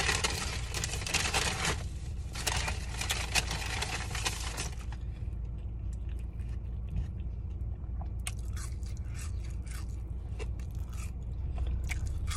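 Two bursts of rustling in the first five seconds, then chewing and small mouth clicks as French fries are eaten. A steady low hum runs underneath.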